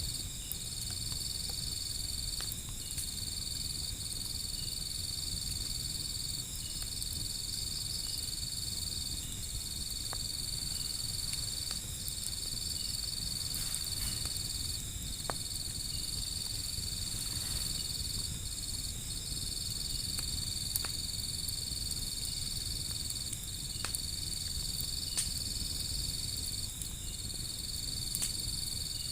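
Insects trilling steadily, with brief breaks every few seconds, over a low rumble. A wood fire gives scattered sharp crackles and pops.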